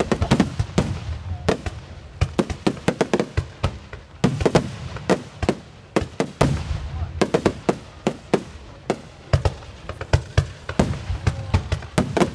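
Aerial firework shells bursting in quick succession. Sharp bangs come in dense clusters, several a second at times, over a rumbling low end that swells and fades between clusters.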